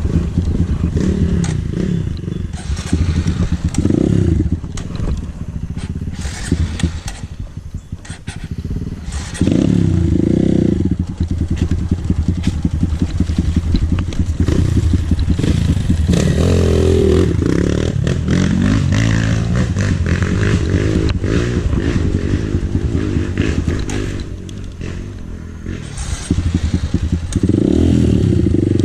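Dirt bike engine revving up and falling back again and again, the pitch rising and dropping several times, as the bike is worked up a steep trail.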